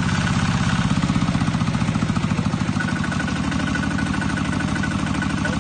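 An engine running at a steady speed, its low pulse even throughout.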